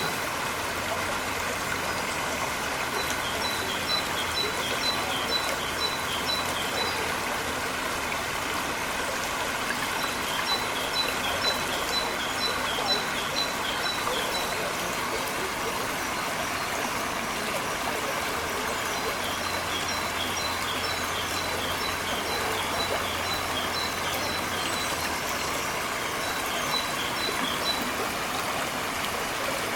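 Running water splashing steadily, as from a city fountain. A low engine hum comes in twice for several seconds, and rows of short, high, quick chirps repeat through much of it.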